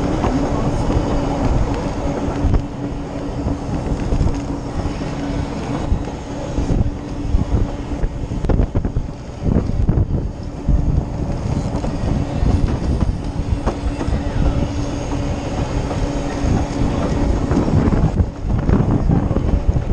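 Moving train carriage running on the track: a steady rumble with irregular wheel clacks and knocks over a steady hum.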